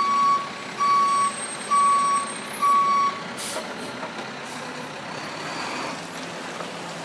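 Tow truck's reversing alarm beeping, four single-tone beeps about one a second, stopping about three seconds in. A short hiss of air follows, then the steady noise of the idling truck and street traffic.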